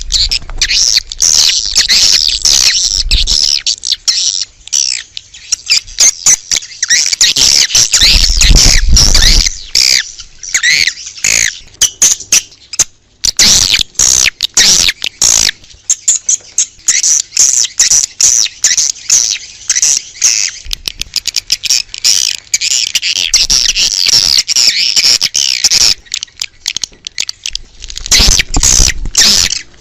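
Swiftlets calling in a dense, rapid chattering twitter, a recording of the kind played to lure swiftlets into a nesting house. A low rumble comes in briefly about eight seconds in and again near the end.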